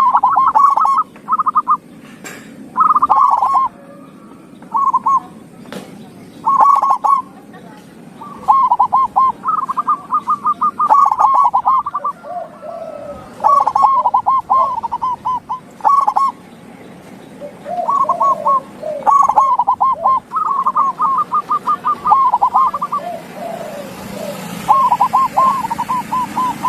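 Zebra dove (perkutut) cooing: a series of rapid trilled phrases, repeated every second or two, with some lower-pitched notes in between.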